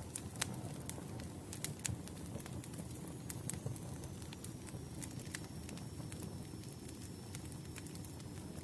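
Wood campfire burning: a steady low rumble of flames with frequent sharp crackles and pops of burning logs, a few louder pops in the first two seconds.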